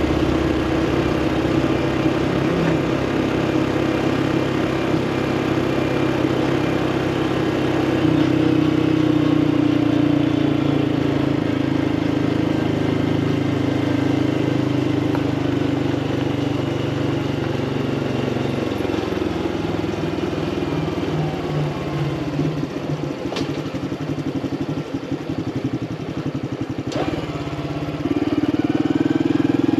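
Honda CT125 Hunter Cub's air-cooled single-cylinder engine running under way. The engine note eases off about two-thirds of the way through and picks up again near the end.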